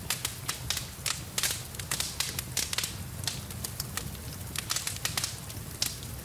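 Wood fire crackling in a fireplace, with frequent sharp irregular pops over a steady low rumble.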